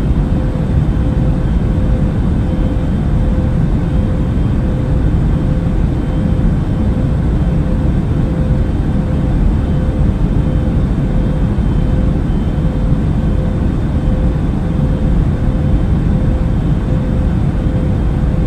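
Steady drone of an airplane in flight: an even low rumble of engines and rushing air with a faint steady hum on top, unchanging throughout.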